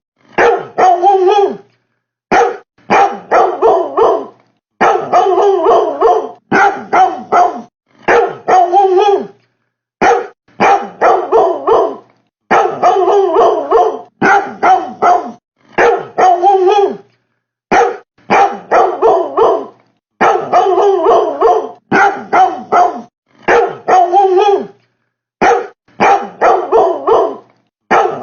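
Dog-like barking in quick runs of three to five barks, the runs separated by short silent pauses, going on without a break in the pattern. It is presented as a refrigerator that barks.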